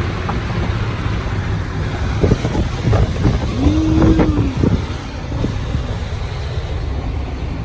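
Steady road and engine rumble of a vehicle driving at highway speed, with a few knocks and a brief held tone about halfway through.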